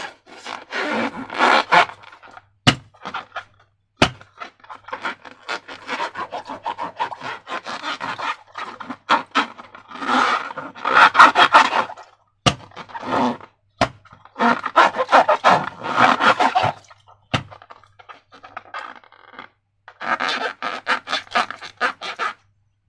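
Slime-making materials being scraped and worked in bouts of rapid strokes a few seconds long, with several single sharp snaps between the bouts.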